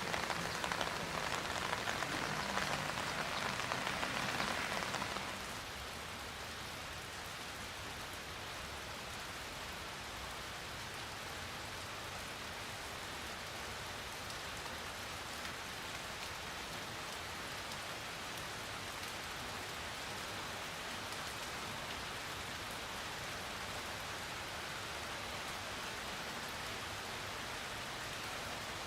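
Steady rain falling, heavier for about the first five seconds and then settling to a lighter, even level.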